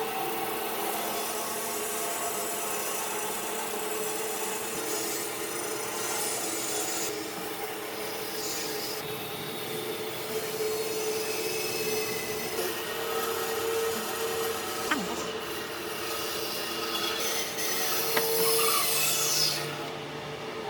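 A power tool running steadily with a hum and a scraping, rasping hiss as it works wood. A falling whine comes near the end, and then the noise drops.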